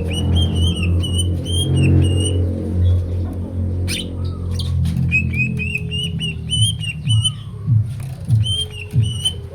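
A green leafbird (cucak ijo) singing runs of quick, repeated whistled notes in phrases, breaking off near the middle and starting again, over a steady low hum.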